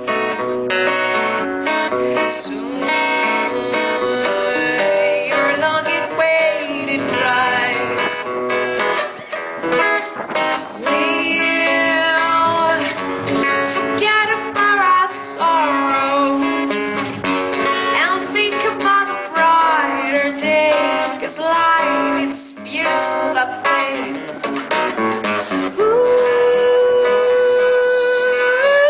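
Acoustic guitar playing with a woman's voice singing a wordless melody over it. Near the end she holds one long note.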